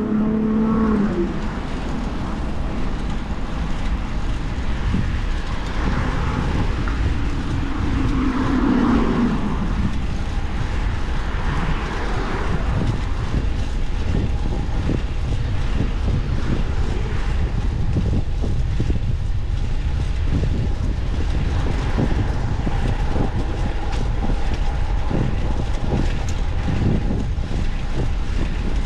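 Wind rumbling on the microphone and road noise while riding a fixed-gear bicycle in traffic, with a vehicle sweeping past about eight seconds in.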